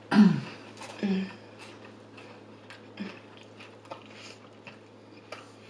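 Close-miked chewing of food, with scattered wet mouth clicks and smacks. Short murmured hums of enjoyment come just after the start, about a second in and again about three seconds in.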